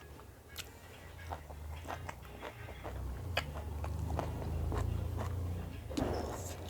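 Close-up eating sounds: chewing and biting, with many short wet clicks and crunches from the mouth.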